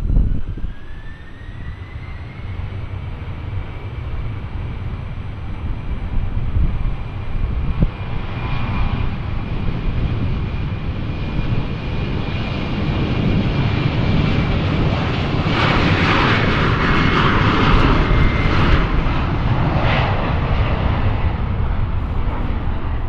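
Airliner engines at takeoff: a whine rises in pitch over the first couple of seconds and then holds steady, while a low rumbling roar builds and grows louder, loudest about two-thirds of the way through.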